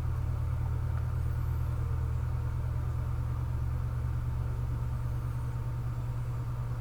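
A steady low hum with nothing else over it.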